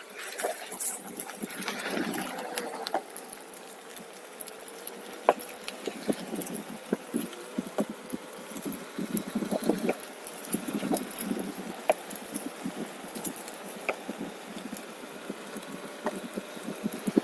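OneWheel electric board rolling along a trail, with many irregular clicks and knocks from the board and its tyre over the ground and a faint thin whine.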